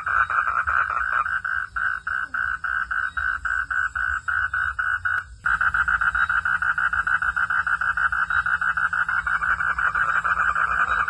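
Frogs calling in a steady, rhythmic chorus at night, about four pulsing notes a second. The chorus drops out briefly with a click about five seconds in, then resumes more densely.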